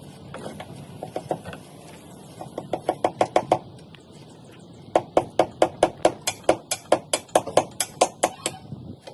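Hammer strikes in quick runs, a short burst about two and a half seconds in, then a longer run of about five blows a second: hammering on slab shuttering.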